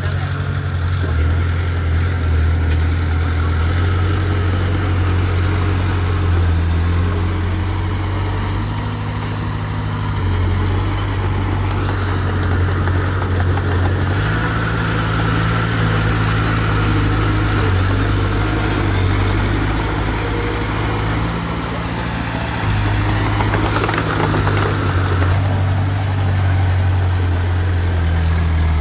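Heavy diesel engine of earthmoving machinery running under load, its note stepping up and down, with bursts of brighter grinding noise about twelve seconds in and again near twenty-four seconds.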